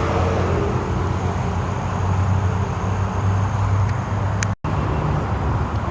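Steady low rumble under an even hiss, cut by a brief dropout to silence about three-quarters of the way through.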